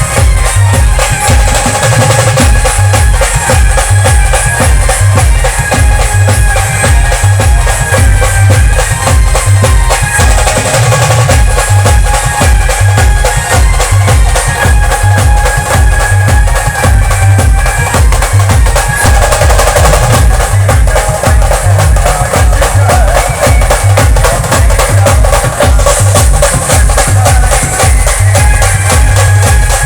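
Band music, loud and continuous, with a steady, heavy drum beat under melody instruments.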